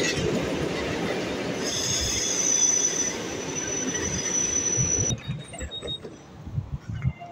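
Electric multiple-unit train rolling along the platform with a loud rumble of wheels. About a second and a half in, a high steady squeal joins and holds until the sound cuts off abruptly about five seconds in. A much quieter stretch follows by a standing electric train, with a faint thin whine and light clicks.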